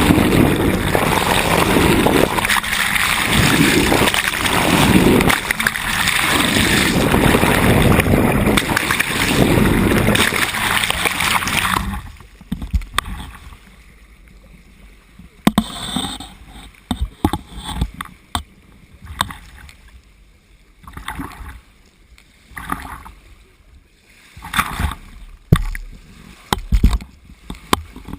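Sailboat moving through the sea: a loud rush of water and wind for about the first twelve seconds, which stops suddenly. After that only quieter water is heard, splashing and slapping against the hull in irregular short bursts.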